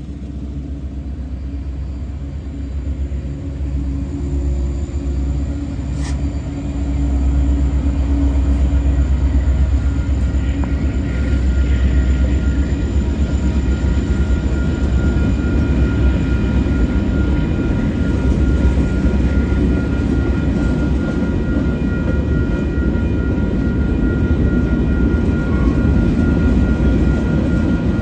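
Union Pacific freight train pulling out: the diesel locomotives pass close under power with a steady engine drone. About seven seconds in, this gives way to a louder, even rumble of covered hopper cars rolling over the rails. A thin, steady high tone joins about halfway through.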